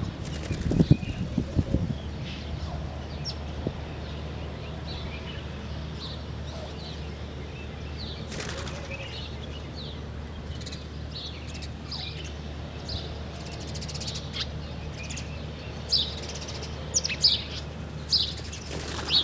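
Small birds chirping with short, high calls scattered throughout, growing busier near the end, over a steady low hum. A few loud low sounds come in the first two seconds, and there is a brief rushing sound about eight seconds in.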